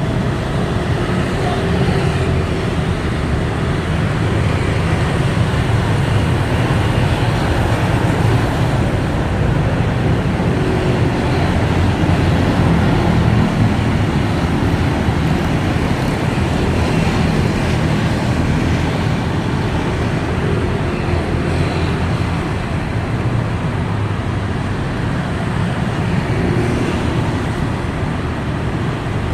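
A steady, loud low rumble with a hiss over it that does not change.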